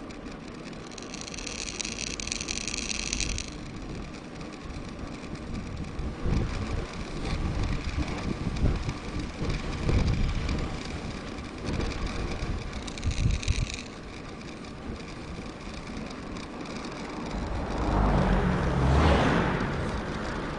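Wind rumbling on a bike-mounted action camera while a mountain bike rides along a road, with the rear freehub buzzing twice as the rider coasts. Near the end a car approaches and passes, swelling and fading.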